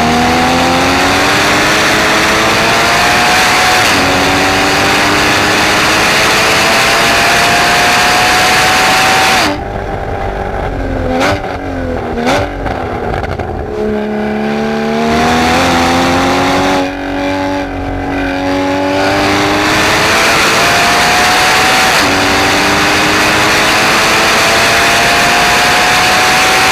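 2016 Porsche Cayman GTS's flat-six engine, heard from inside the cabin, revving up through the gears with an upshift about four seconds in. Near ten seconds the driver lifts off and the pitch falls, with two quick throttle-blip downshifts. From about fourteen seconds it pulls hard again, with another upshift a little past twenty seconds, rising to about 7,000 rpm.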